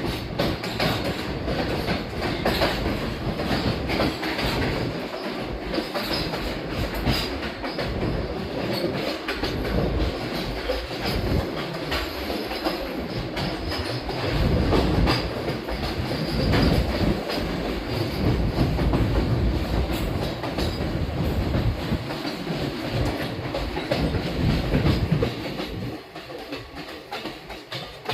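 Passenger train running, with a steady rumble and the clickety-clack of wheels over the rail joints. It grows quieter near the end.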